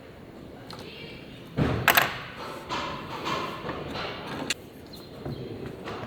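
Workshop handling noise from a motorcycle engine rebuild: a heavy thud and a sharp knock about one and a half seconds in, then a couple of seconds of irregular rattling and clinking of tools and metal parts, settling into a few lighter knocks.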